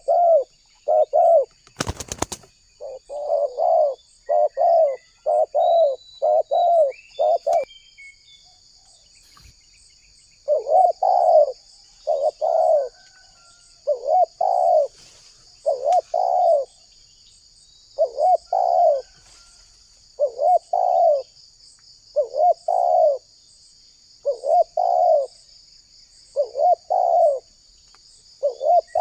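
Spotted dove (tekukur) cooing over and over: a rapid run of low coo notes, then after a short pause paired coos every couple of seconds. A sharp click about two seconds in, and a faint steady high-pitched hum underneath.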